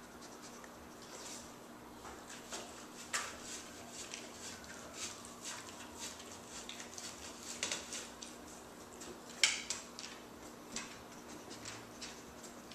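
A pet eating, with irregular small crunches, clicks and taps against its dish, the sharpest about nine and a half seconds in.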